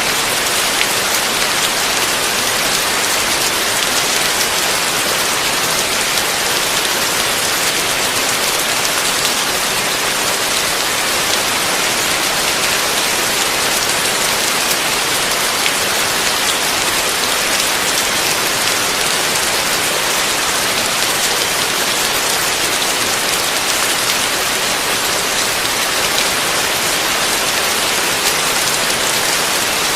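Heavy rain falling steadily: a dense, even hiss of countless drops, with no thunder.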